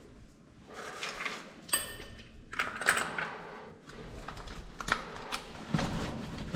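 Irregular clicks, clinks and short scrapes of hard parts being handled, with a lower rumbling noise coming in near the end.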